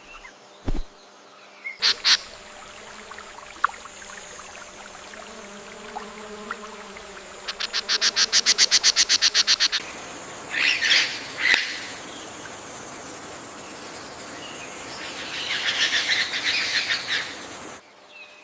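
Rainforest ambience of bird calls and chirps over a steady high whine, with a rapid pulsing trill of about ten notes a second for two seconds midway and further chirp bursts later on.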